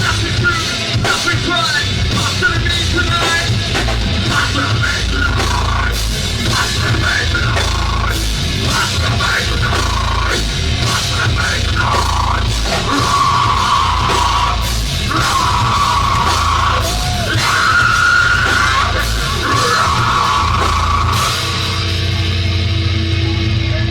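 Heavy rock band playing live: drums, distorted guitars and yelled vocals. About 21 s in the drums and cymbals stop and a held chord rings on.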